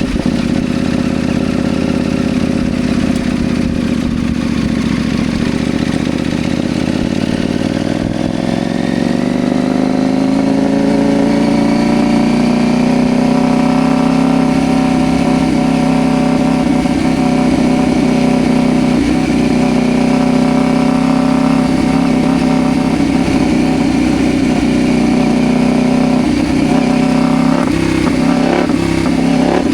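CFMoto Ibex 800T motorcycle's parallel-twin engine running under way. It holds a steady, lower pitch, climbs as the bike accelerates about a third of the way in, then holds a higher, steady pitch.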